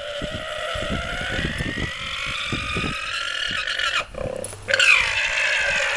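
An animal's long, drawn-out call held for about four seconds, then a second call starting near the end with a falling pitch, over dull low thumps.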